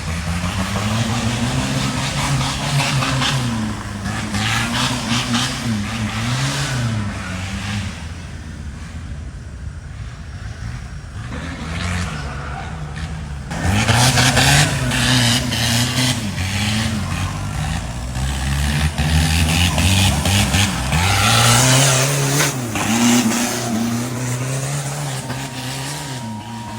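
Off-road race car engine revving hard, its pitch climbing and dropping again and again through gear changes, growing louder about halfway through.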